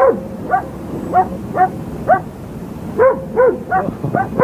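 A dog barking over and over in short, high-pitched barks, roughly two a second, with a brief gap in the middle.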